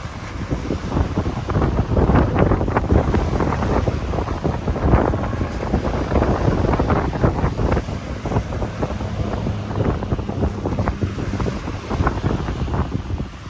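Strong wind gusting and buffeting the microphone over breaking ocean waves, swelling louder about a second in.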